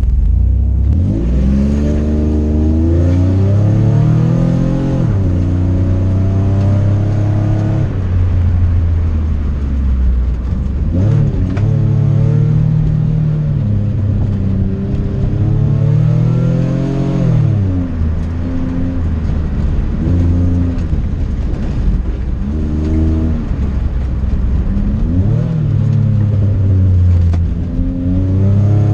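Car engine on an autocross run, repeatedly revving up hard and then dropping off as the car accelerates and slows through the course.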